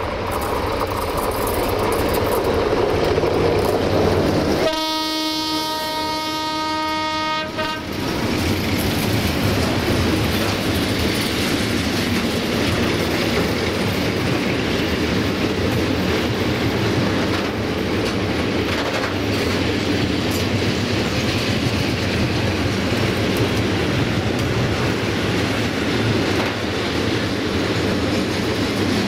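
Train running past with a steady rumble. About five seconds in, its horn sounds one steady blast lasting about three seconds, and then the running noise carries on.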